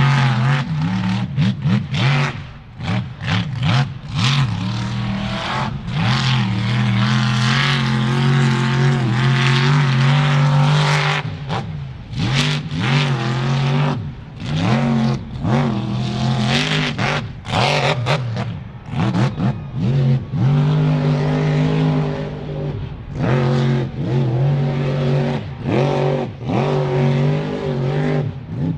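Mud truck engine revving hard in quick repeated throttle bursts, with a longer stretch held at high revs about six seconds in.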